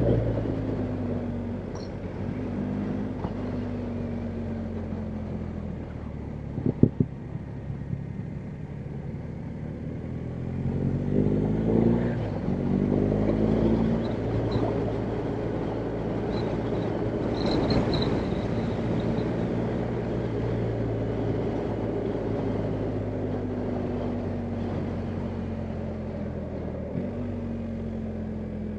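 BMW R1250GS Adventure's boxer-twin engine running under way. It eases off with falling pitch, then revs up quickly through the middle, holds steady, and eases off again near the end. A couple of sharp clicks come about a quarter of the way in.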